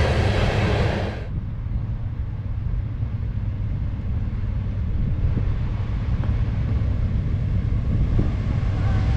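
Freight train of coal gondola cars rolling past close by, a loud rushing noise of steel wheels on rail that cuts off abruptly about a second in. After that comes a lower, steady rumble with wind on the microphone.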